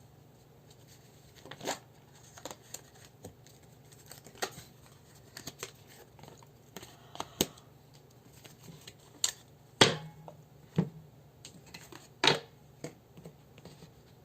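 Tarot cards being handled: scattered light rustles and clicks, with two louder taps about ten and twelve seconds in.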